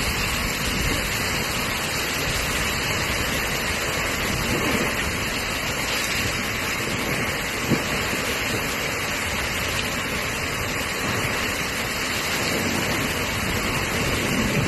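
Steady rushing of water with no change in level, and one short knock about halfway through.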